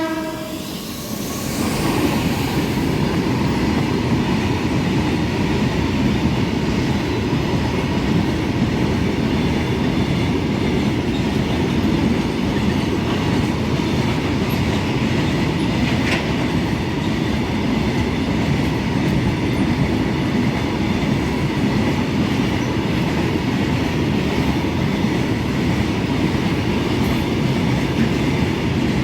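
Indian Railways goods train passing: a steady rumble and clatter of the wagons' wheels on the rails. The locomotive's horn cuts off just at the start.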